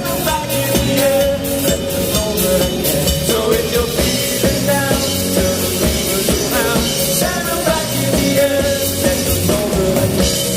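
A rock band playing live, with drums keeping a beat under held guitar and keyboard-like notes, in an instrumental stretch near the end of a song.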